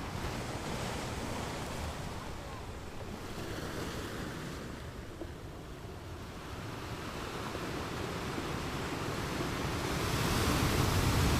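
Ocean surf washing ashore, a steady rush that eases off about halfway through and swells louder near the end as a wave comes in.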